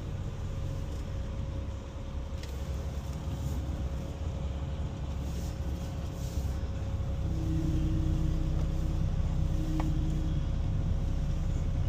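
Semi-truck's diesel engine running steadily at low speed while manoeuvring. It gets a little louder and higher from about seven seconds in.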